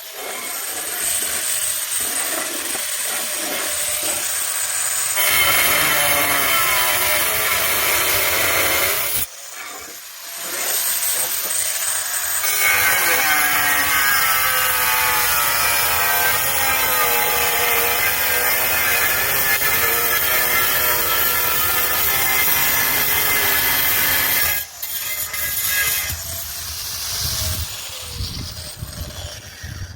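Sawing: a cutting tool working steadily through material in several stretches that start and stop abruptly, with a wavering whine in the longest stretch.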